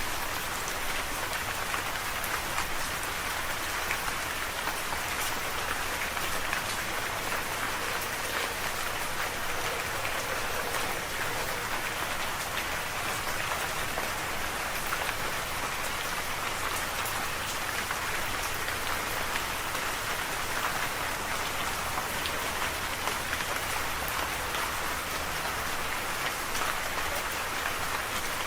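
Steady rain falling, a continuous hiss of many fine drop patters with no change in intensity.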